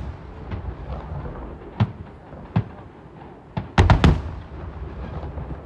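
Fireworks shells bursting in the sky: single booms about 2 and 2.5 seconds in, then a quick cluster of three or four loud bangs about 4 seconds in, with a low rumble between them.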